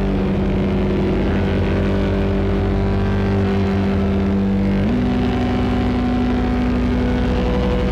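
Distorted ambient drone from a Eurorack modular synthesizer: a DPO oscillator patch sequenced in a loop and run through Lyra8-FX distortion and Mimeophon delay. It plays held, gritty tones over a dense low rumble, and the main note steps up in pitch about five seconds in.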